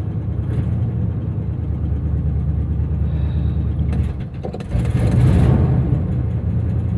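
Carbureted 350 V8 of a 1982 Chevy pickup running just after a cold start at about −20 °C. A little after four seconds in, the sound dips briefly, then surges louder for about a second before settling back to a steady run, as the engine is set into its cold high idle.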